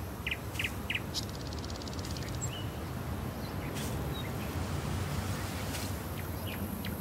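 Birds chirping and calling in short scattered notes, including a rapid trill about a second in, over a steady low rumble of background noise.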